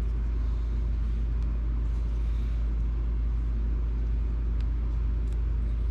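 Steady low droning hum with a few faint light clicks.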